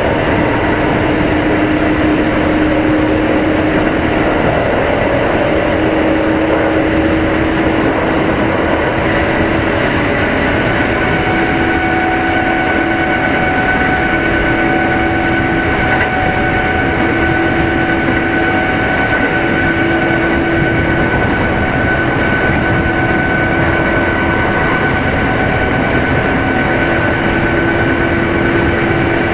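Interior running sound of a Kintetsu 2610 series electric train motor car cruising at steady speed: a constant rumble of wheels on rail with a steady whine from the traction motors and gears that holds one pitch.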